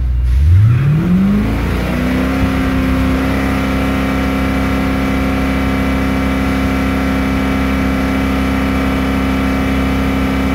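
2009 Holden Commodore's 6.0-litre V8 engine revved from idle with the car stationary. It climbs over the first two seconds, then is held steady at about 4,000 rpm.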